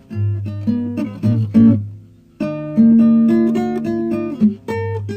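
Acoustic guitar playing an instrumental intro: plucked and strummed chords that ring on, with a brief pause about two seconds in before a fresh chord.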